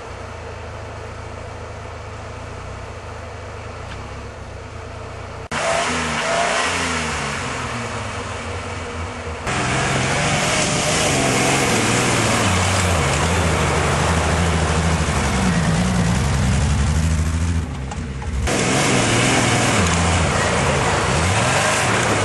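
Jeep CJ-7's engine idling quietly, then after abrupt cuts running loud and revving hard, its pitch rising and falling over and over as the Jeep works its way off-road through snow.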